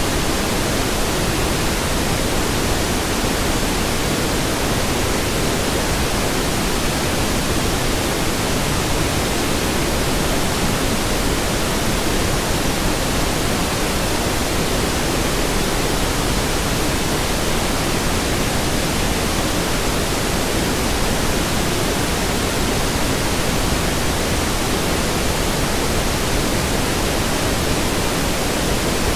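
Steady pink noise: an even, unchanging hiss with its weight toward the low end.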